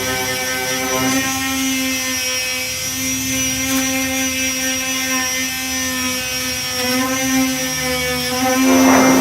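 Power sander with a 240-grit disc running at a steady pitched whine while sanding body filler, with a louder burst of sanding noise near the end.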